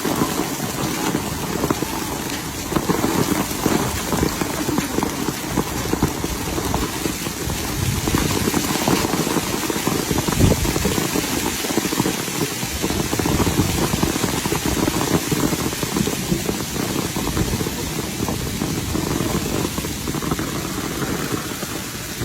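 Rain falling steadily, a dense continuous hiss of drops at an even level.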